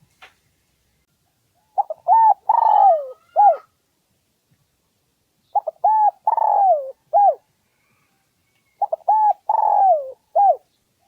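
Spotted dove cooing, a decoy call used to draw in wild males. It gives three similar phrases about three and a half seconds apart, each a few short coos followed by a longer falling coo and a short closing note.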